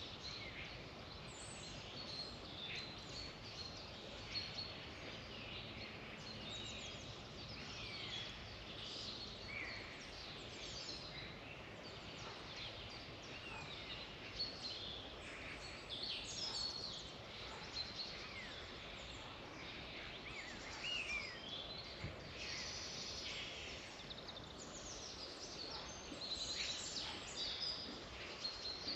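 A chorus of wild songbirds, many short chirps and whistles overlapping, over a steady background hiss.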